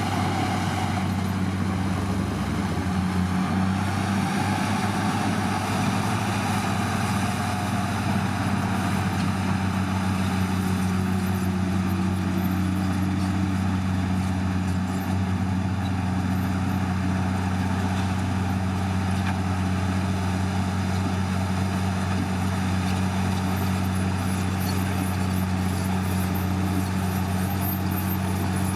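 Heavy diesel engine of earthmoving equipment running at a steady, even speed.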